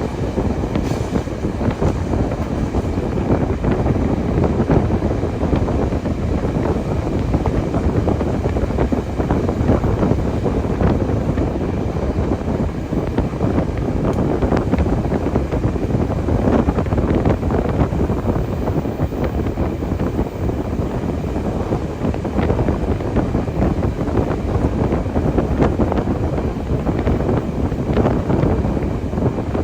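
A train running steadily, a continuous rumble with wind buffeting the microphone.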